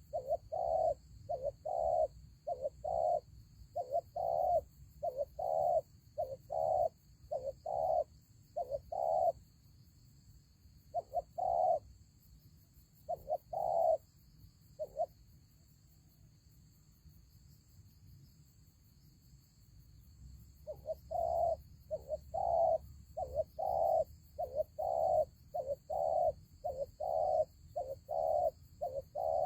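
Spotted dove cooing in runs of short, low repeated coo notes, about two a second. The notes thin out and stop for a few seconds past the middle, then start again.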